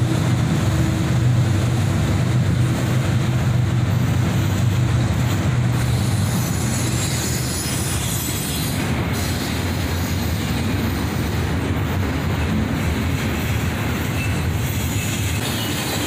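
Double-stack intermodal freight cars rolling past: a steady rumble and rattle of wheels on rail. A low diesel drone from the mid-train locomotive that has just passed fades out about halfway through.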